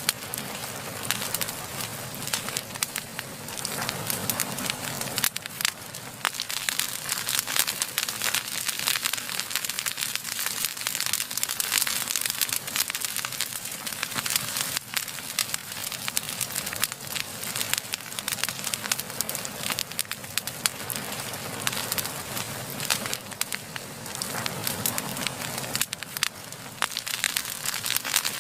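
Wood fire burning, with continuous dense crackling and many sharp little pops over a low rushing of flame.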